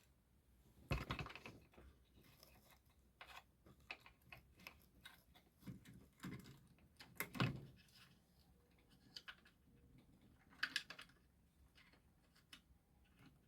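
Scattered light clicks and taps of small hand tools and metal parts being handled, with a few louder knocks about a second in, midway and near the end.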